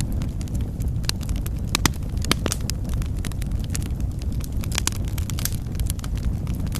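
Wood fire crackling in a fireplace: a steady low rumble of flames with irregular sharp pops and snaps throughout.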